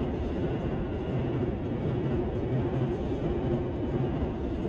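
Train running past on the tracks: a steady low noise with a hum that swells and fades.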